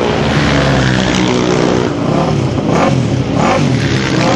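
Single-cylinder racing motorcycle engine running hard on track. In the second half its pitch rises and falls several times in quick succession as the revs go up and down.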